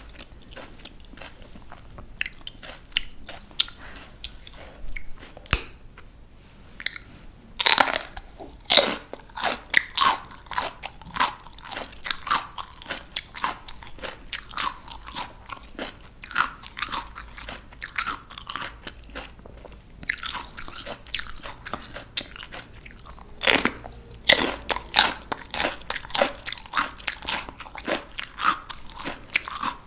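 Raw crunchy vegetables bitten and chewed close to the microphone: two loud crisp bites, about eight seconds in and again near two-thirds through, each followed by a run of rapid crunchy chewing, with lighter crunches between.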